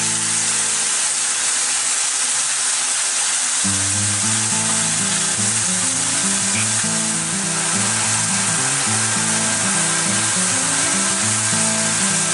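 Chinese noodlefish frying in hot oil in a frying pan, a steady, even sizzle. Background music with low bass notes plays underneath.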